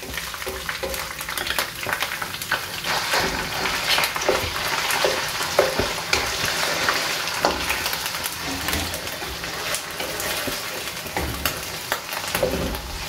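Raw chicken pieces sizzling and crackling in hot oil in a wok, with a wooden spatula scraping and knocking against the pan as they are stirred.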